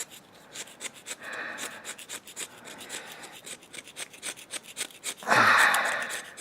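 Razor blade scraper scraping hard carbon deposits off a 4.0 engine piston, a run of short rasping strokes with a louder, longer rush of scraping about five seconds in.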